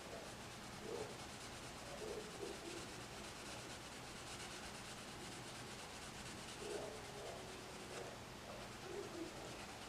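Faint, steady scratching of a coloured pencil shading on paper.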